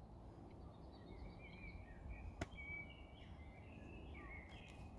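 Faint birdsong in a conifer forest: small birds chirping and warbling over a low background rumble, with a single sharp click about halfway through.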